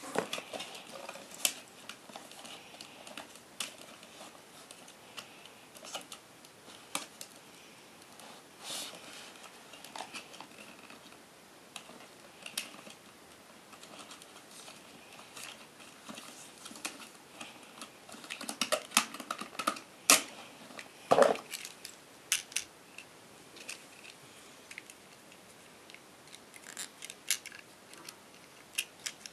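Packaging and parts of a GoPro Hero 3 being handled while unboxing: scattered clicks, taps and short rustles, with a busier run of sharper clicks about two-thirds of the way through.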